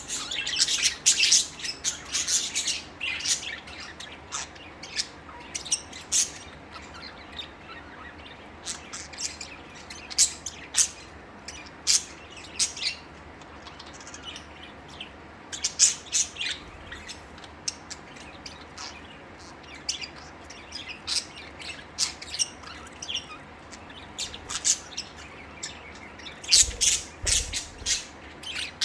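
A flock of pet budgerigars chirping and chattering in quick, irregular bursts of short high calls, busiest at the start and again near the end, with a sparser stretch in the middle.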